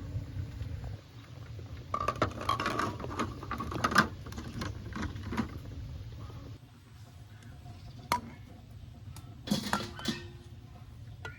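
Dishes and kitchen utensils clinking and knocking: a busy run of clinks for a few seconds, then a few separate knocks.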